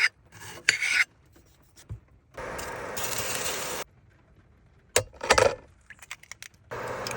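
Cooking sounds in quick cuts: a few short rasping scrapes of a utensil on cookware, and two stretches of steady hiss that start and stop abruptly.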